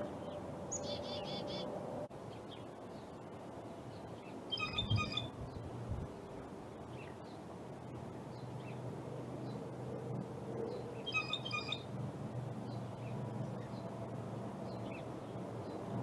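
Wild birds calling: three short bursts of quick, high chirping notes, about a second in, near five seconds and near eleven seconds, with faint scattered chirps between, over a low steady background hum.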